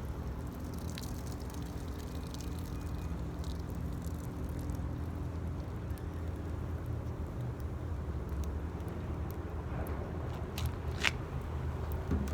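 Wood fire burning in a metal 18-litre can, with scattered crackles and pops over a steady low rumble and one sharper pop about eleven seconds in.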